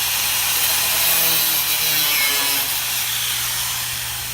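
A power tool cutting metal: a steady hiss over a low motor hum.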